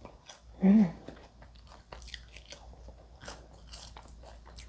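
Close-miked chewing of KFC french fries dipped in ketchup: a string of small wet mouth clicks and smacks, with a brief hum of the voice about a second in.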